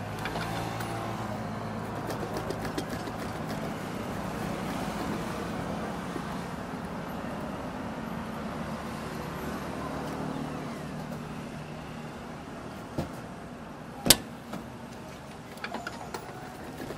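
A steady engine hum, like a motor vehicle running, that fades over the last few seconds, with a small knock about thirteen seconds in and a sharp, louder knock a second later.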